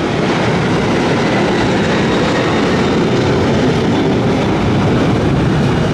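Jet airliner engines running at high power as the aircraft passes: a loud, steady rushing roar that holds level throughout.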